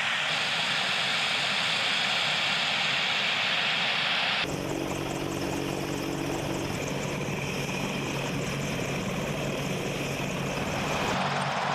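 Aircraft engine noise in two edited shots. First comes a steady, high hiss, then about four and a half seconds in a sudden switch to a lower, steady engine hum with held tones. Near the end the sound shifts again.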